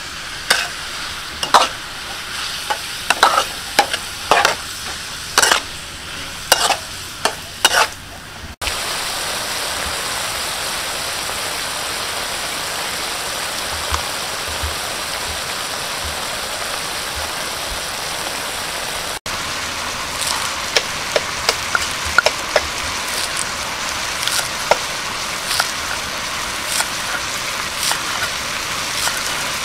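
Food frying in a pan, stirred with repeated scraping strokes of a utensil. About a third of the way in it changes suddenly to a steady sizzle. Later it turns to sizzling with scattered light pops and ticks.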